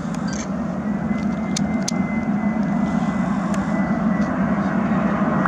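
Jet engines of a Boeing 747-400 freighter heard from the ground: a steady low rumble that grows slowly louder, with a faint thin whine above it.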